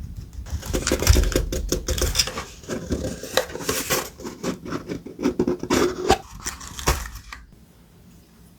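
Thick paper being handled on a notebook: a dense run of rustling, scratching and small taps that stops suddenly about seven seconds in.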